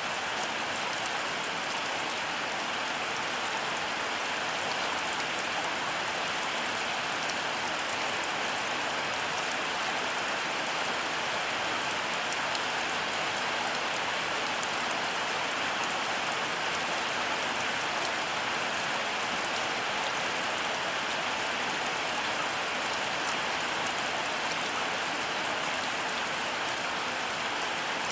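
Heavy rain falling steadily: a dense, even hiss of countless drops, with the fine ticks of single drops hitting just audible on top and no thunder.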